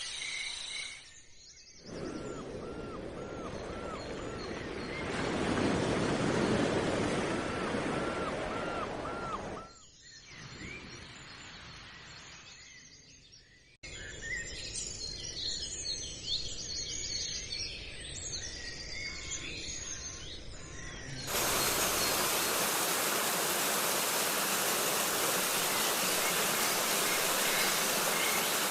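Small birds chirping against outdoor background noise, broken into several separate stretches: runs of short repeated chirps, then a busier mix of varied calls. The last third is a loud steady hiss.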